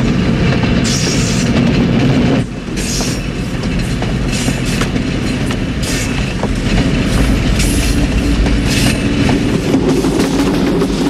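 Runaway diesel locomotives running at high speed: a heavy, steady engine and rail drone with wheels clattering over the track. The sound drops sharply about two and a half seconds in, then builds again.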